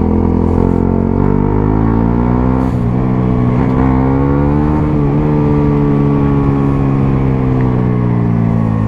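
Suzuki GSX-S 125's single-cylinder four-stroke engine with a Mivv GP Pro aftermarket exhaust, running under way. Its pitch climbs, with short breaks about two and a half and five seconds in, then falls slowly toward the end.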